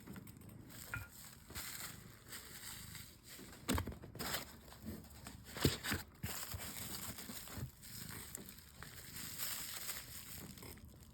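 Packing material crinkling and tearing as wrapped rock specimens are unpacked, with a few sharp knocks, the loudest about four and six seconds in.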